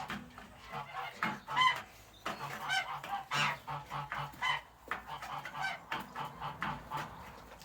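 Domestic geese honking and chickens clucking in short repeated calls, over a low, fast pulsing of about four beats a second that starts about two seconds in.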